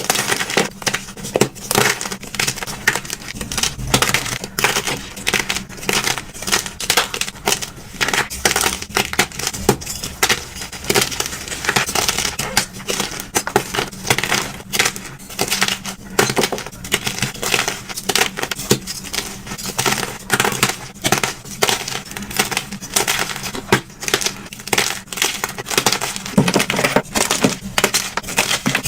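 Blocks of dyed gym chalk being crushed, a dense run of irregular crunches and crumbles.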